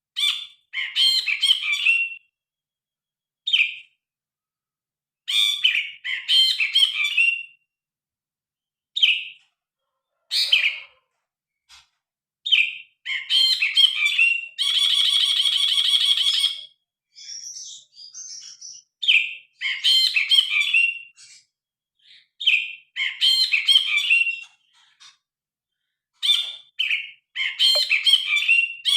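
Cinereous bulbul (brinji kelabu) singing: repeated short phrases of quick, loud chirping notes with short pauses between them, and a long harsh buzzing rattle about halfway through, with another starting near the end.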